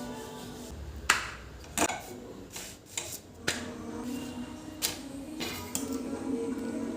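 Soft background music with about six sharp knocks or clinks scattered through, the loudest about a second in.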